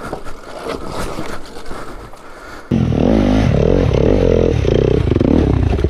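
Rustling and scraping, then about three seconds in a dirt bike's engine suddenly starts revving hard and loud, its pitch rising and falling, settling into an even pulsing near the end.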